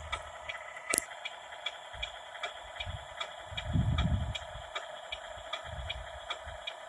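RC 6x6 dump truck running: a steady mechanical whine with an even ticking about four times a second, and a few low rumbles, the loudest around the middle.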